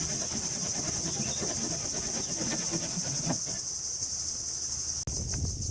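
Steady, shrill chorus of insects, crickets or similar, with a fast pulsing texture, over irregular low rustling and knocking from work being done close by. About five seconds in the sound briefly drops out and the low noises change.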